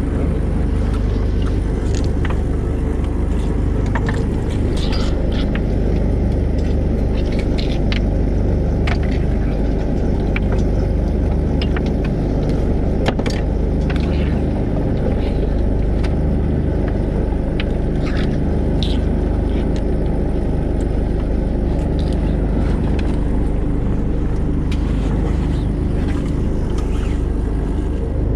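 A boat's engine running steadily with a low, even rumble, with scattered light clicks and knocks on deck.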